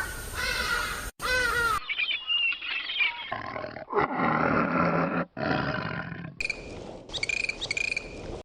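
Animal calls from several short recordings cut together, changing abruptly about a second in, near two seconds and about six and a half seconds in.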